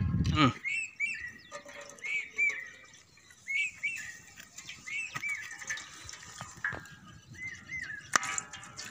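A small bird chirping in short, arched notes, often in pairs, with a few light knocks.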